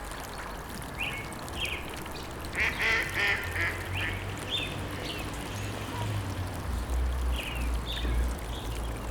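Ducks quacking: short calls scattered through, with a quick run of calls about three seconds in, over a low steady rumble.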